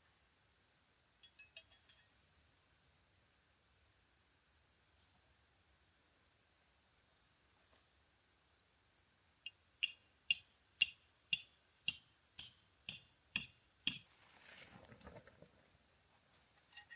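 Faint forest ambience: a steady high insect trill runs throughout, with a few short bird chirps. About halfway through comes a run of about ten sharp knocks, roughly two a second, then a brief rustle.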